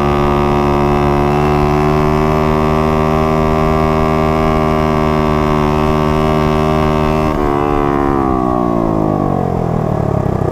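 Honda CT70 mini bike's small single-cylinder four-stroke engine held at full throttle in a drag run, its pitch high and slowly climbing. About seven seconds in, the throttle is closed and the engine note falls steadily as the bike slows.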